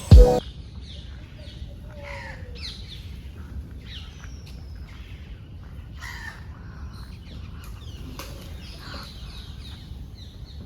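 Many birds calling in an open park, short chirps and caws overlapping, some falling in pitch, over a low steady background rumble. A brief loud knock comes right at the start.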